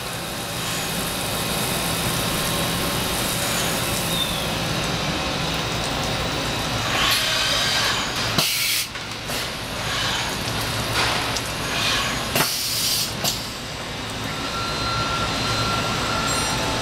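Milltronics VM-24 CNC vertical machining center running a program with coolant on: a steady machine hum and spray noise. Short, loud hissing bursts come about halfway through and again about three quarters in, and a steady high whine joins near the end.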